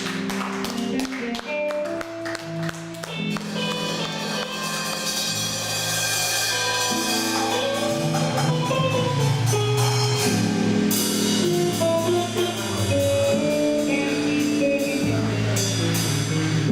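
A band playing a song, with a drum kit keeping time under held, changing instrument notes.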